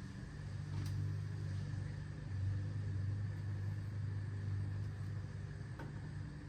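Steady low mechanical hum, with two faint clicks, one about a second in and one near the end.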